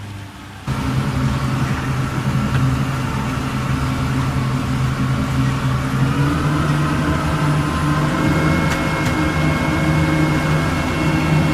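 Boat engine running loud and steady, cutting in suddenly about a second in, its pitch climbing a little about halfway through as it is pushed toward full power.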